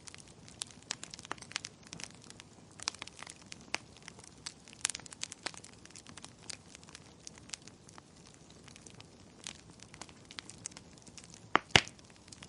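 Wood fire crackling, with irregular sharp pops and snaps and a louder double pop near the end.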